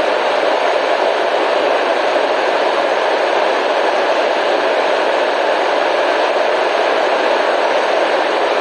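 Relaxation white-noise track: a steady, even hiss that never changes, centred in the middle of the pitch range with little deep rumble or very high sizzle.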